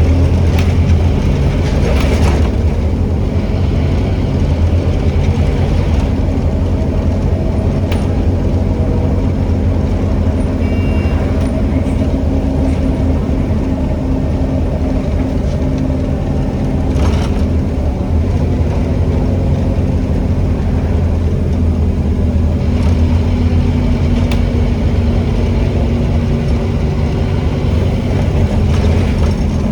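Scania N270UD OmniCity double-decker bus, its five-cylinder diesel engine running with a steady low hum, heard from on board. A few brief rattles or knocks from the bodywork come through.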